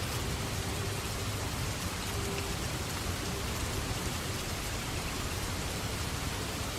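Rain falling steadily in a storm: an even, unbroken hiss with a low rumble beneath it.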